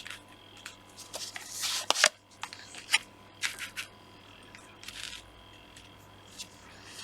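Tarot cards being shuffled and drawn from the deck: several short papery swishes with a few light clicks.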